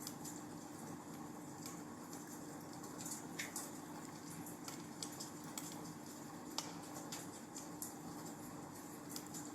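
Wood fire crackling in a fireplace: irregular sharp pops and snaps over a soft steady hiss, with a faint low hum underneath.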